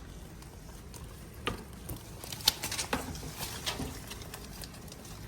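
A short run of light, irregular taps and clicks, the sharpest about two and a half seconds in.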